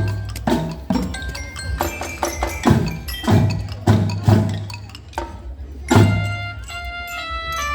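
Marching band percussion playing: deep drum hits and sharp strikes mixed with ringing mallet-percussion notes, with held pitched notes coming in near the end.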